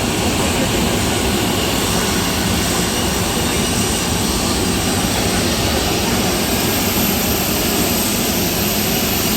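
Steady, unchanging noise of a jet airliner in flight, heard from inside the passenger cabin.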